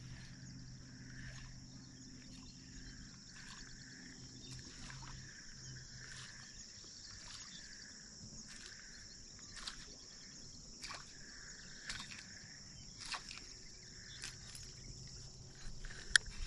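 Insects singing steadily in a high-pitched drone, with a softer call repeating about once a second and scattered light clicks. A faint low hum fades out about halfway through.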